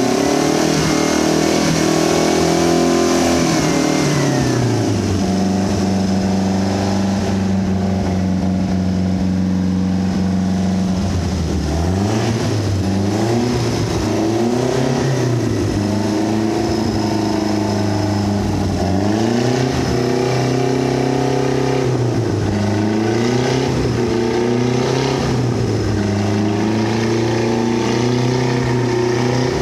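1980s Mercruiser 140 hp Chevrolet four-cylinder marine engine running: a rev held for a few seconds drops back to a steady idle, then the throttle is blipped again and again, about every two to three seconds. The engine picks up and falls back cleanly, showing it is responsive and revs freely.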